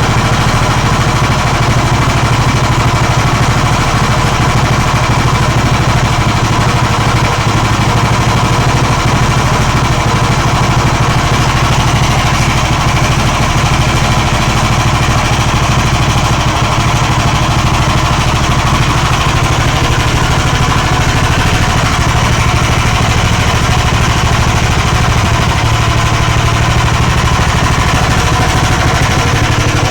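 Magnum BS190F 15 hp single-cylinder air-cooled petrol engine, a copy of the Lifan 190F, running steadily on its first run-in.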